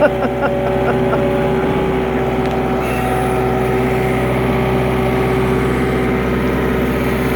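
Skid steer loader's engine running steadily, with a few light clicks in the first second or so.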